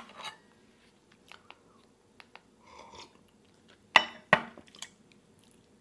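Close-up eating sounds: soft chewing and crunching, with small ticks of cutlery and dishes. About four seconds in come two sharp clicks a third of a second apart, the loudest sounds here.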